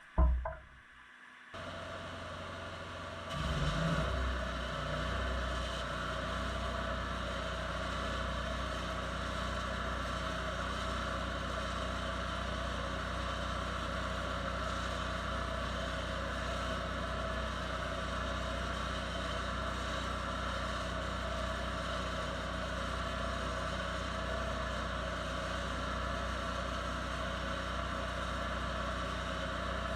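An engine running steadily, starting about a second and a half in and getting louder around three and a half seconds, then holding an even pace with no revving.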